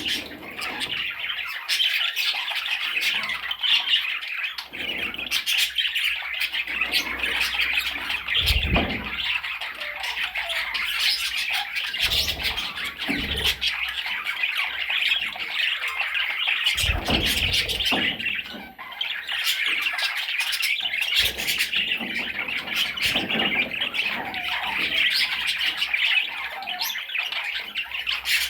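Budgerigar chattering and squawking nonstop, a dense stream of high chirps, with a few dull thumps along the way.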